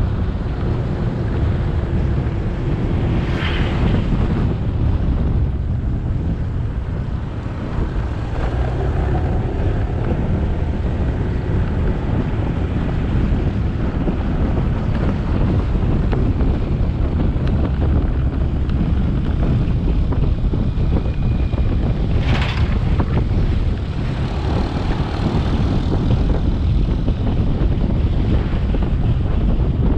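Motorcycle engine running while riding, with heavy wind noise on the action-camera microphone and road noise. There are two brief louder rushes of noise, about three and twenty-two seconds in.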